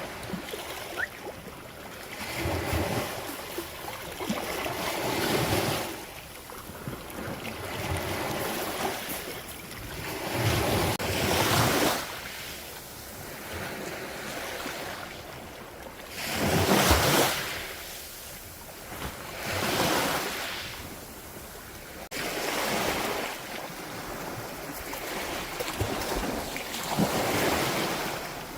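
Sea waves breaking and washing up a beach, the surf swelling and falling back every few seconds, with the biggest wave about halfway through. Wind buffets the microphone.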